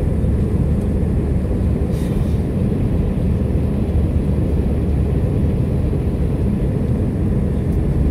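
Airbus A321 jet engines and airflow heard inside the cabin: a steady low rumble.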